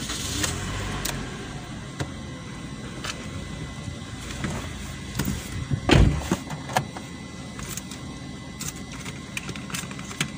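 Car engine idling, heard from inside the cabin, with scattered small clicks and one loud thump about six seconds in.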